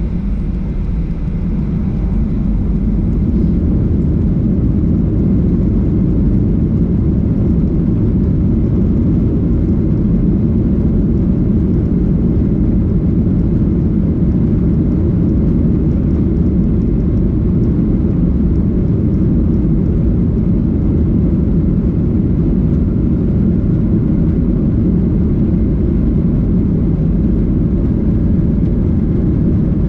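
Steady low rumble inside a Boeing 737-800's cabin from its CFM56 jet engines and the rushing air. It builds slightly over the first few seconds, then holds level.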